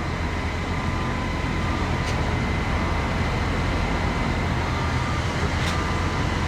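Heavy diesel engines of a concrete pump truck and ready-mix trucks running steadily with a low, even rumble.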